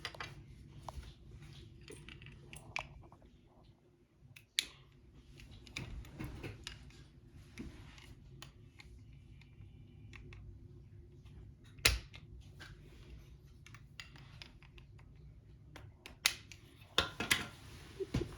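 Plastic toy-kit parts being handled and fitted together: scattered small sharp clicks and taps at irregular intervals, one much louder click about two-thirds of the way through, and a quick run of clicks near the end.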